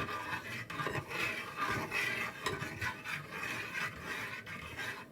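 A spoon stirring and scraping around a pot of sauce, an irregular rasping that stops abruptly at the end.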